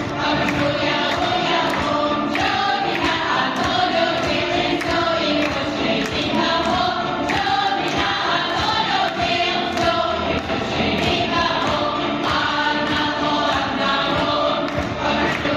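A choir singing a song over musical accompaniment with a steady beat.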